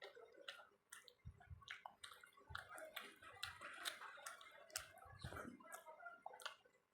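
Faint close-up eating sounds: chewing of rice and dal with many small wet clicks and squelches from the mouth.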